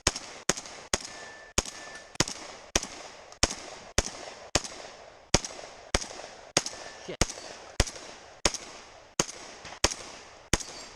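Rock Island Armory VR-80 semi-automatic 12-gauge shotgun firing a steady string of about eighteen shots, roughly one every half to two-thirds of a second, each with a short echoing tail.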